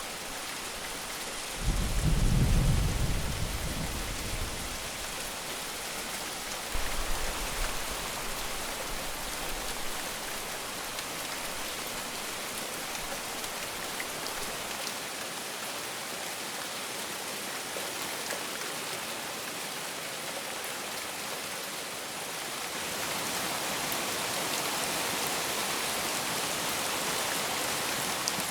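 Heavy rain falling steadily, with a loud low rumble of thunder about two seconds in and a weaker rumble around seven seconds. The rain grows a little louder near the end.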